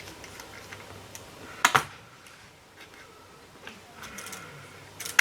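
Small plastic and metal clicks and taps of RC car parts and tools being handled during disassembly, with a louder double clack about 1.7 s in and another at the very end.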